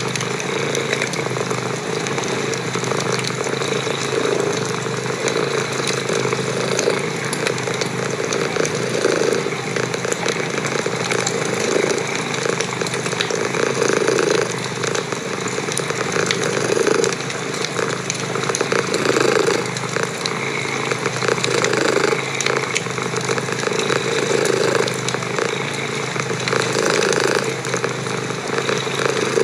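Domestic cat purring close up, steady, swelling and fading with each breath about every two and a half seconds, over the faint crackle of a wood fire.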